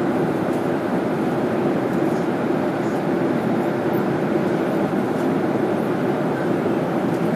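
Steady drone of an airliner cabin in flight: an even rushing noise with a low hum that does not change.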